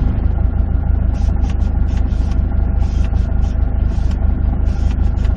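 Subaru WRX STI's turbocharged EJ20 flat-four engine idling steadily, heard from inside the cabin as a deep, even rumble, with irregular short bursts of hiss above it.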